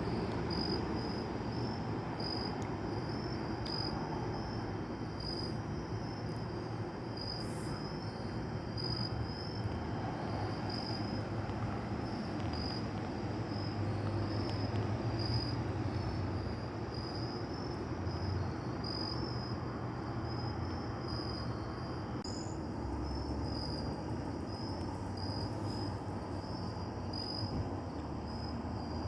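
Crickets chirping in a steady, even run of short high chirps, over a constant low rumble of background noise.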